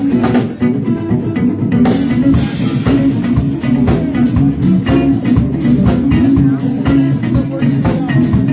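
Live rock band playing: electric guitar, bass and drum kit, with a steady beat.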